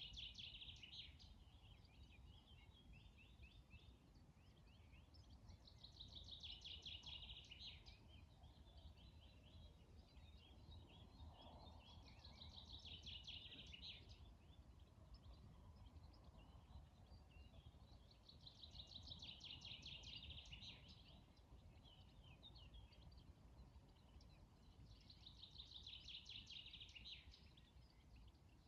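Faint outdoor morning ambience: a songbird repeats the same short, rapidly trilled phrase five times, about once every six seconds, over a steady low rumble of background noise.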